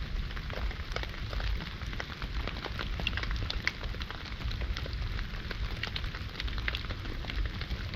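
Log campfire crackling with scattered sharp pops, over a steady hiss of rain falling on the tarp overhead.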